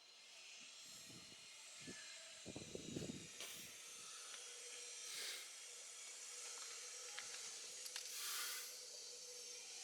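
Faint outdoor background hiss, with low rumbles between about one and four seconds in and two brief swells of noise later.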